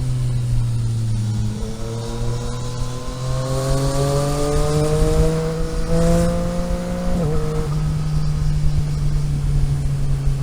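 Car engine pulling through a gear, its pitch rising steadily for about five seconds, then dropping sharply about seven seconds in as it shifts up. Steady road and wind noise runs underneath.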